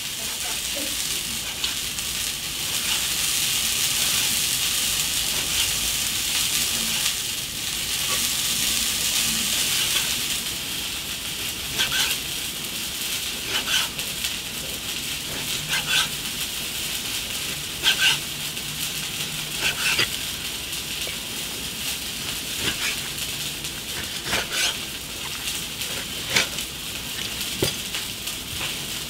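Food sizzling steadily in an iron wok. From about halfway through, a short sharp knock comes about every two seconds.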